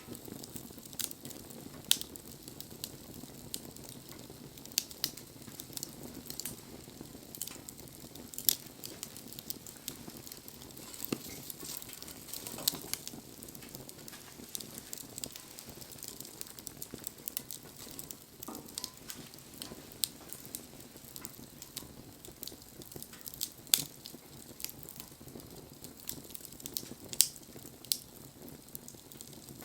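Wood campfire burning, with a steady low hiss and irregular sharp crackles and pops as the wood burns.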